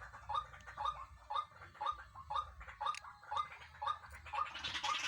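White-breasted waterhen calling: a steady series of short repeated notes, about two a second. Near the end, louder and harsher overlapping calls join in, as the pair call together.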